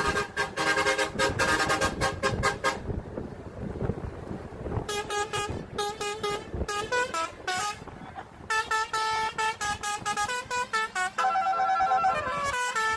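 Truck's musical air horn sounding a tune of short held notes that step up and down in pitch, pausing for about two seconds partway through, with a low rumble of the vehicle beneath.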